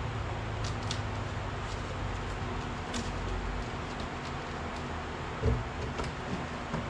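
A few light clicks and one dull knock about five and a half seconds in, over a steady background hiss with a faint hum: parts or tools being handled.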